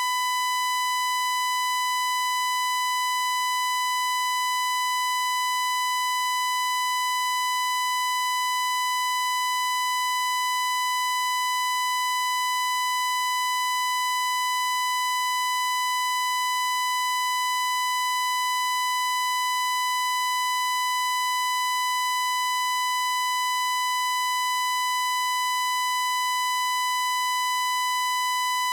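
Continuous electronic test-tone beep at about 1 kHz, held unchanging in pitch and loudness.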